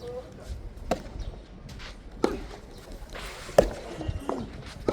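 Soft tennis rally: rackets striking the soft rubber ball, four sharp hits about a second and a half apart, the third the loudest.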